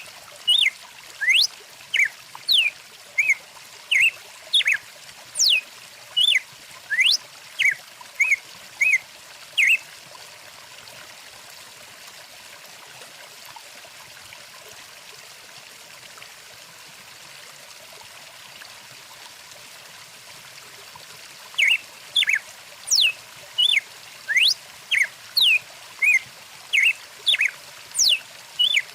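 Stream water trickling steadily, with songbirds repeating short chirps and quick whistles that sweep steeply downward, about one or two a second. The birds stop for about ten seconds in the middle and start again with the water still running.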